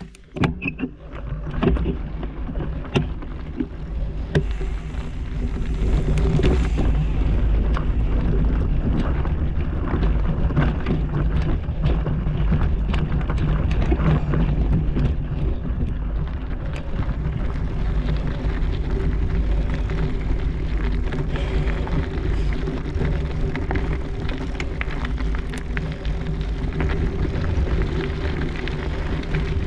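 Bike riding over a rough, rocky trail: tyres rumbling, the bike rattling with frequent sharp knocks, and wind buffeting the microphone.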